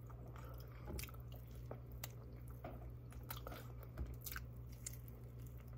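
Faint close-up chewing of a fried chimichanga, soft mouth sounds with scattered small crackles from the crisp fried shell, over a low steady hum.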